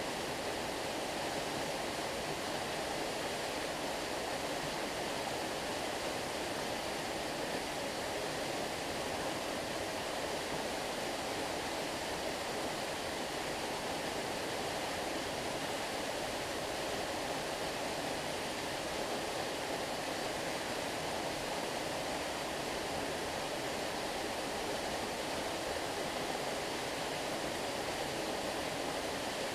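Flowing water of a stream, a steady, unbroken rush.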